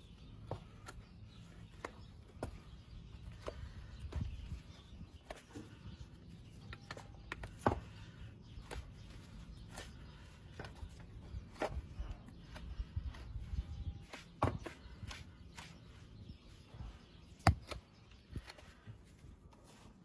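Hoof-trimming work on a horse's hoof: irregular scraping and sharp clicks of tools cutting and paring the hoof, with two louder snaps about eight seconds in and near the end.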